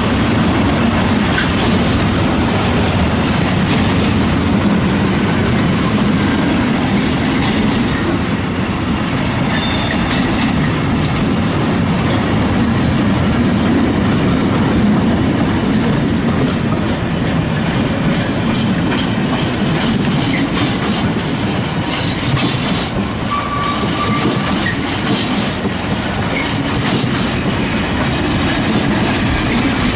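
Freight wagons of a long goods train, covered hoppers and then sliding-wall wagons, rolling past: a steady rumble of steel wheels on the rails with rhythmic clicking over the rail joints. A few short high wheel squeals come through, around a quarter of the way in and again past the middle.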